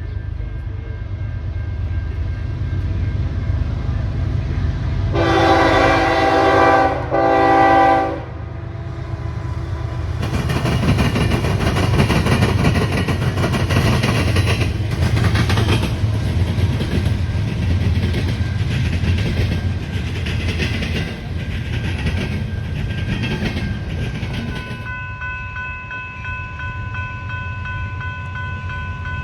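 A train passing: a low locomotive rumble, the horn sounding one long blast and then a short one about five to eight seconds in, followed by the cars clattering past over the rail joints for about fifteen seconds. As the clatter fades near the end, steady high ringing tones are left.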